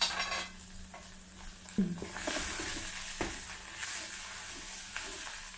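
Chopped onion sizzling in hot oil in a granite-coated pot while a silicone spatula stirs it, with small scrapes and clicks against the pot. The sizzle grows louder about two seconds in.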